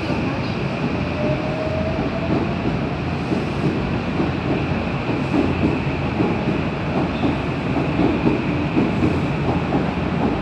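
JR West 323 series electric train pulling away from the platform, its wheels clacking over the rail joints. A faint whine rises in pitch during the first few seconds.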